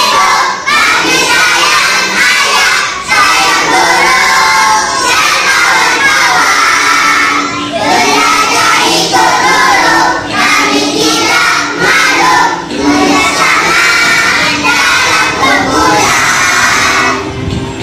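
A class of young children singing together loudly, close to shouting, in short phrases with brief breaks.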